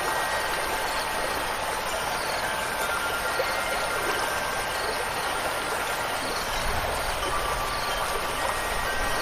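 Steady rushing water noise, with a few wind chime notes ringing faintly over it and fading away.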